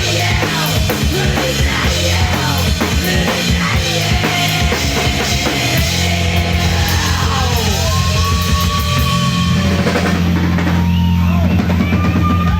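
Live band playing rock music, with the drum kit to the fore over a steady bass line; the cymbals drop out about ten seconds in.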